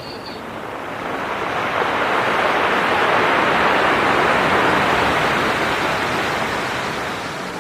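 A large storm wave breaking on the shore, its rush of surf building from about a second in, peaking mid-way and slowly fading.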